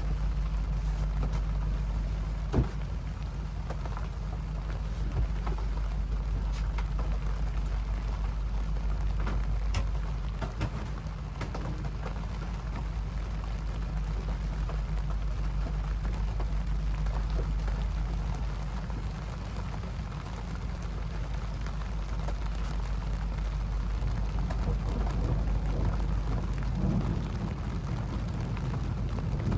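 Rain falling steadily in a storm, with scattered sharp drop impacts over a deep steady rumble, and one sharper knock about two and a half seconds in.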